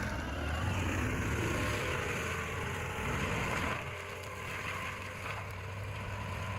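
Heavy machine's engine running steadily with a low hum under a rough, noisy haze; a little under four seconds in the sound drops and changes.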